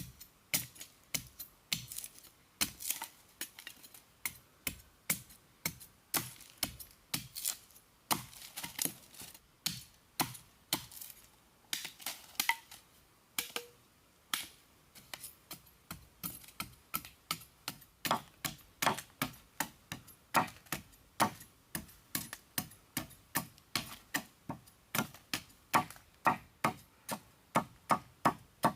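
A long series of sharp, separate chopping strikes, about two to three a second, coming a little faster in the second half.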